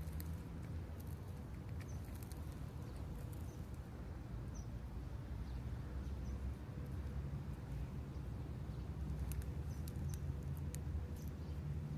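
Faint, scattered short high-pitched bird chirps over a steady low outdoor rumble.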